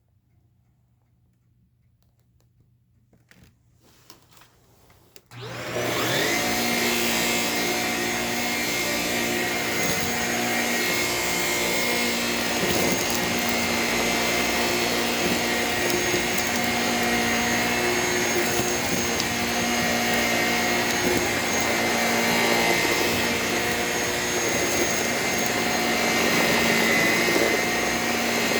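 A few small clicks, then a Shark Rocket stick vacuum switched on about five seconds in, its motor whining up quickly to speed and then running steadily.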